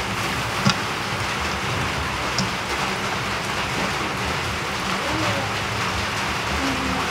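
A steady hiss like falling rain, with a faint click about two-thirds of a second in and another about two and a half seconds in.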